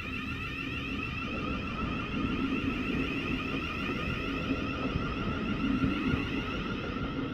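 Class 700 electric multiple unit pulling away from the platform, its traction equipment giving a steady whine of several held tones over a low rumble that grows gradually louder.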